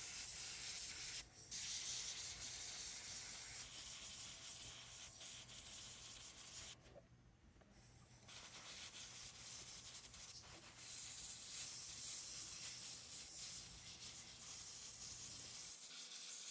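Airbrush hissing as it sprays paint, over a low steady hum; the spray stops briefly twice, once for about a second and a half. The airbrush is not working properly, so the paint is not going on as well as it should.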